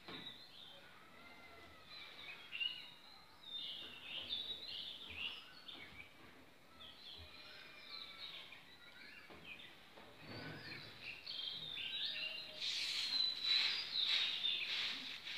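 Small birds chirping repeatedly in short, high calls in the background. About three-quarters of the way through, a louder scratchy rustling joins in and carries on to the end.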